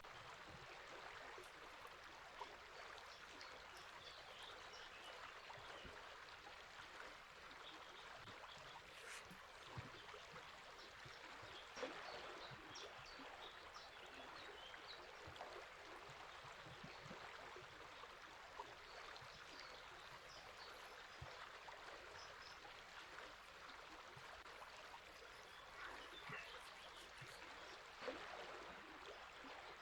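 Faint steady rush of a flowing river, with scattered small bird chirps over it.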